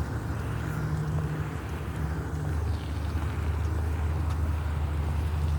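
Truck engine running with a steady low rumble as the truck pulls out.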